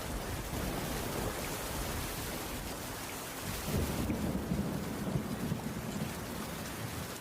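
Heavy rain falling steadily on a wooden cabin roof, with a low rumble of thunder swelling for a couple of seconds about halfway through.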